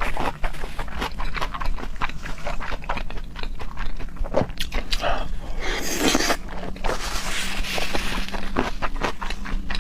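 Close-miked mouth sounds of someone eating raw seafood: wet chewing, smacking and clicks, with one longer, louder noisy stretch about six seconds in.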